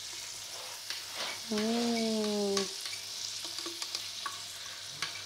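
Blended chilli spice paste sizzling and spitting in hot oil in a wok as it is stir-fried, a steady hiss with many small crackles. About a second and a half in, a voice holds one hummed note for about a second, louder than the frying.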